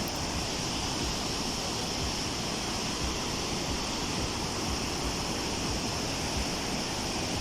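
Steady, unbroken rushing of Victoria Falls, a constant noise of heavy falling water and spray.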